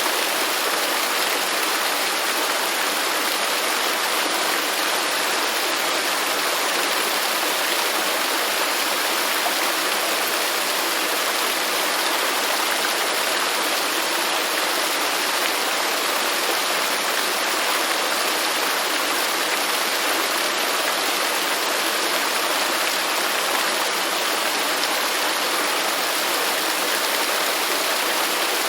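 Waterfall: falling water splashing with a steady, even rush.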